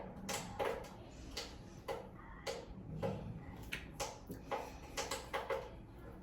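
Light, irregular tapping and clicking of makeup tools and containers, roughly two short taps a second.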